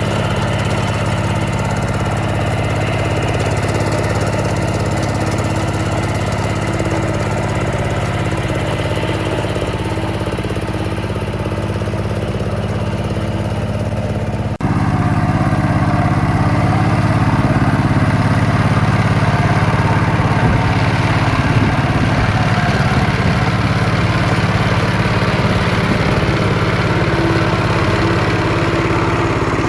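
Small engine of a restored farm tiller running steadily. The sound breaks off abruptly about halfway through and resumes a little louder.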